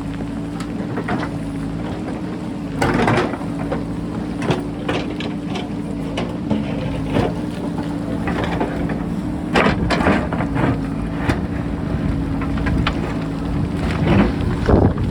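JCB backhoe loader's diesel engine running steadily, with repeated knocks and scrapes of the bucket against rock. Louder crunches come about three seconds in, around ten seconds and near the end.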